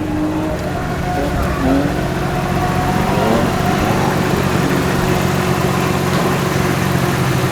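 Nissan Skyline R32 drift car's engine idling steadily.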